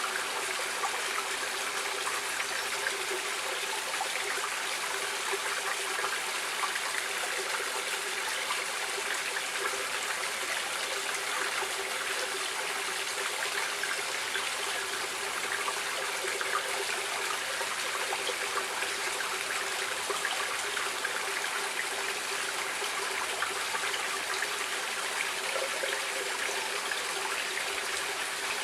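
Stream water running steadily: an even rush of flowing water with fine trickling detail, no single splash standing out.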